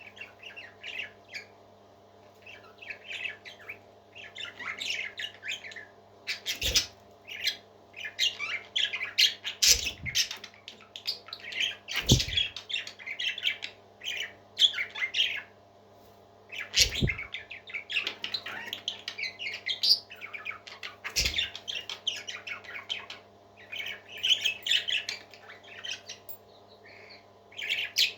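Parrots chirping and squawking in rapid, shrill bursts, with a steady low hum underneath and about five sharp knocks scattered through.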